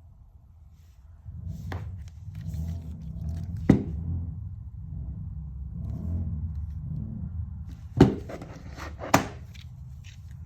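Handling noise: an uneven low rumble with four sharp knocks, the loudest about a third of the way in and again near the end, as a heavy part is moved and set down on a hard surface.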